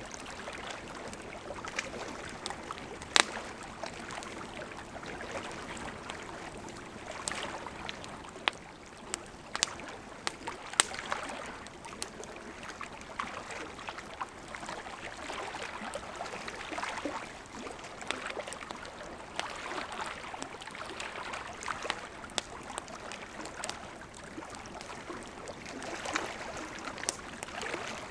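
Wood campfire burning, a steady hiss and rustle of flames with irregular sharp crackles and pops of burning wood, a few standing out loud.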